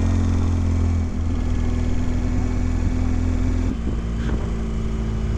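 Motorcycle engine running steadily under way, heard from the moving bike. The engine note changes about two-thirds of the way through.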